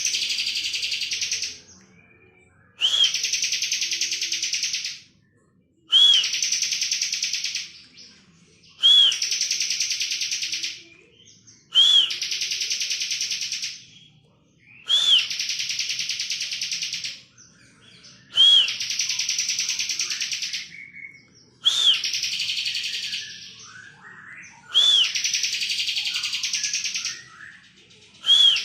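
Bar-winged prinia (ciblek) singing its buzzing 'ngebren' trill. It repeats a phrase about every three seconds: a short rising-and-falling note, then a dense, buzzy trill lasting about two seconds.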